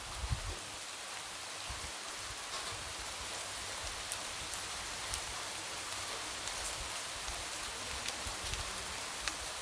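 Light rain falling: a steady even hiss with scattered sharp drop ticks and a few soft low thuds from drops landing.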